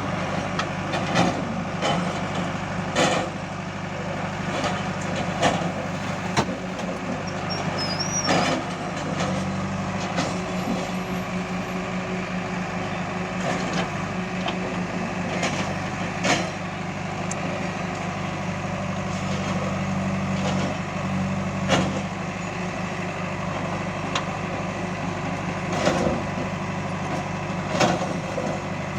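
Heavy diesel engine running steadily, with sharp knocks or clanks every few seconds.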